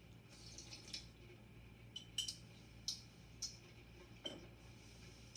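Someone drinking chocolate milk from a cup: a few short, quiet sips and swallows in the middle of the stretch.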